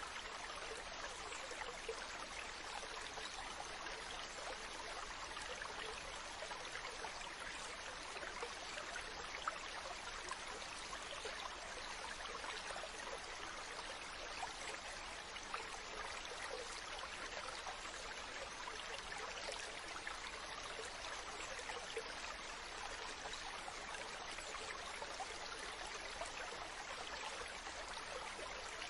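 Mountain stream running over rocks: a steady rush of water with fine splashing and gurgling, unchanging throughout.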